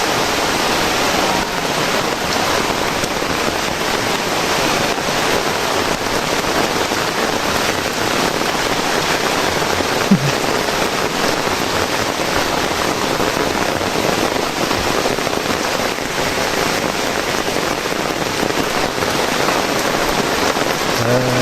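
Heavy, steady rain falling and splattering on surfaces, with a single faint sharp tick about ten seconds in.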